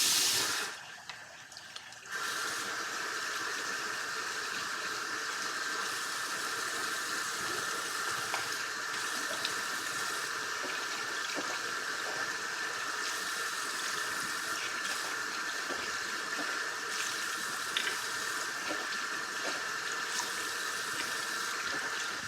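Steady rush of running water with a few small ticks and splashes, settling in about two seconds in after a brief louder burst of noise at the start.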